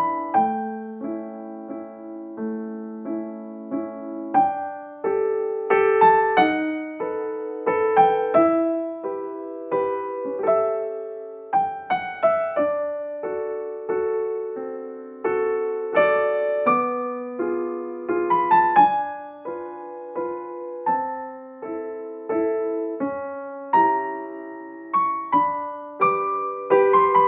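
Solo piano music: a slow, gentle melody of struck notes over held chords.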